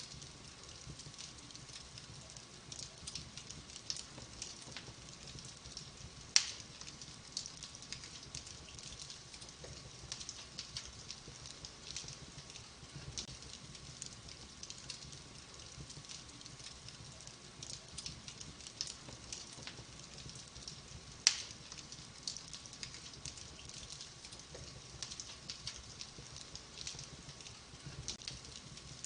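Wood fire burning in a fireplace, crackling steadily with many small snaps and two louder pops, about six seconds in and about twenty-one seconds in.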